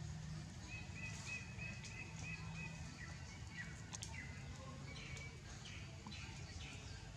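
Bird calls over faint outdoor background noise: a run of about seven short, evenly spaced high chirps, then a few short falling notes.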